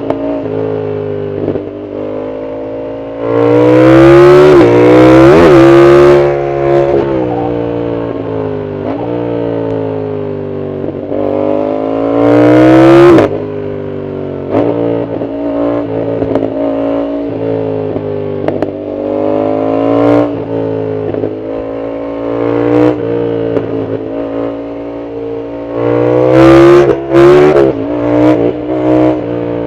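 Yamaha MT-07's 689 cc CP2 parallel-twin engine, on a loud full exhaust, under way: the revs rise and fall over and over as the throttle is rolled on and off through the gears. There are hard, much louder pulls about three seconds in, around twelve seconds in, and again near the end.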